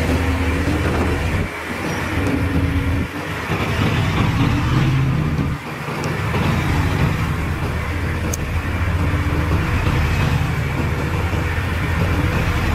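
Heavy diesel engines of earthmoving machines running under load, their pitch shifting as they work, with brief drops in loudness three times in the first half.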